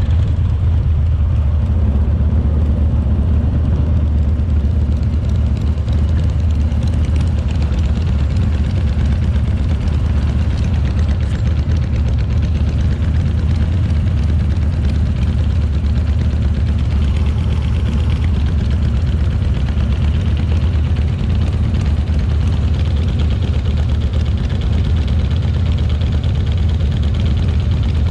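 Harley-Davidson Shovelhead 45-degree V-twin engine running steadily under way, a constant low drone with an even rush of noise above it.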